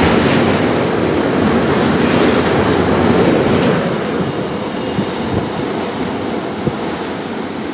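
Freight train of loaded two-deck car-carrier wagons passing close, a dense rush of wheel and rail noise that fades from about four seconds in as the last wagons go by and the train pulls away. A few sharp wheel clacks come near the end.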